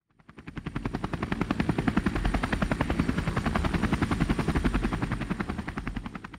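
Helicopter rotor blades chopping in a rapid, steady beat of about ten pulses a second, fading in at the start and fading out near the end.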